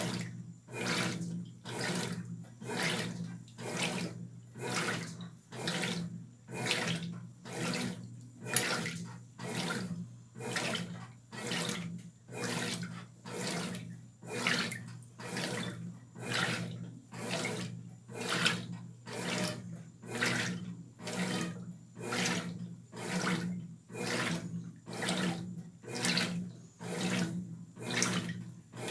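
Brastemp BWR12AB top-loading washing machine agitating a load in its wash phase: water and clothes swish back and forth in regular strokes, about one a second, over a steady motor hum.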